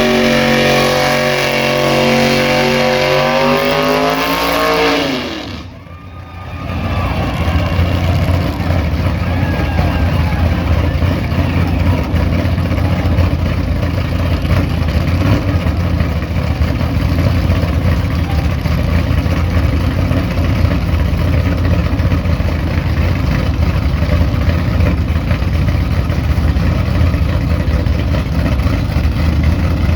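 Tri-Five Chevrolet engine held at high revs in a burnout, its pitch falling as it comes off the throttle about five seconds in. After a brief dip, a loud, rough low engine rumble carries on steadily.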